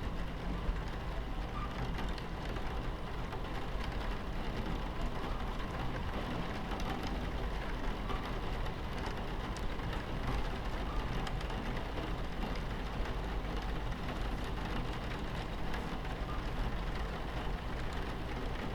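Steady low rumble of a train running, heard from inside a carriage, with rain on the window.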